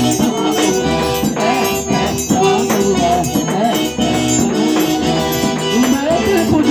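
Live forró instrumental break: an eight-bass button accordion (oito baixos) plays the melody over a steady percussion rhythm.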